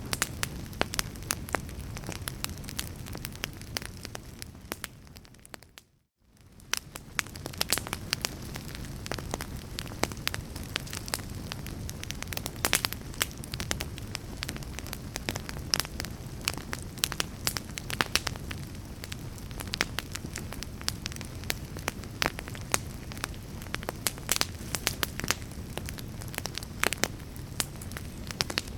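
Wood fire crackling, with many sharp pops and snaps over a low steady rumble. The sound briefly fades out and back in about six seconds in.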